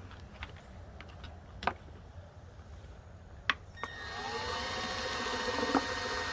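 A few light handling clicks, then about four seconds in an electric drill starts up and runs steadily with a whine, boring a hole through the plastic of a homemade bird feeder.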